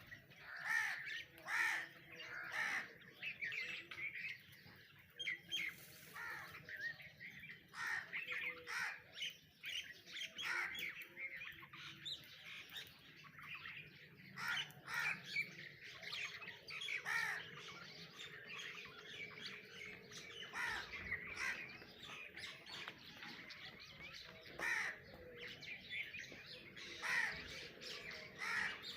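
Birds calling over and over, many short calls in quick succession.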